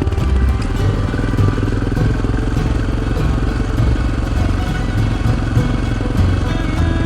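Motorcycle engine running steadily while the bike is ridden along the road, with background music playing over it.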